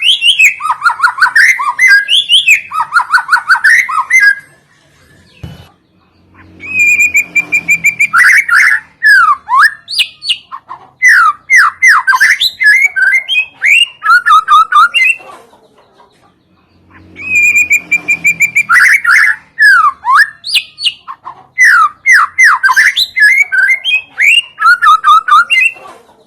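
White-rumped shama song played as a lure: loud, fast phrases of clear whistles, slurred notes and rapid trills, broken by two short pauses. The same sequence repeats about ten seconds apart, as a looped recording.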